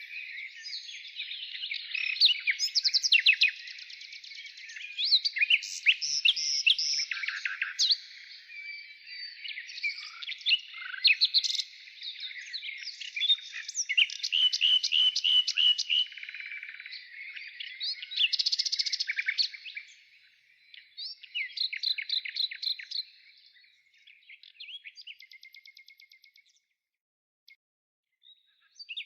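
Songbirds chirping and twittering, several calls overlapping in quick trills and rattling phrases. The calls thin out over the last part and fall nearly silent near the end.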